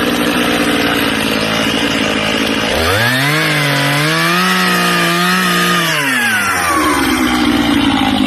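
Stihl chainsaw running at full throttle while cutting rounds from a log. The engine pitch drops and wavers under load in the cut from about three seconds in, then climbs back to full revs near the end as the cut finishes.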